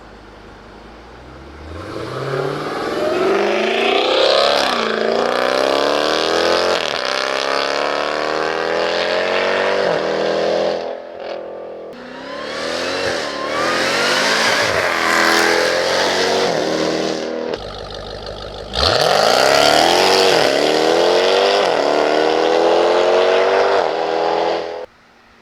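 Dodge Durango Hellcat's supercharged 6.2-litre V8 accelerating at full throttle. The engine note climbs steadily and drops back sharply at each quick upshift, over several runs cut together.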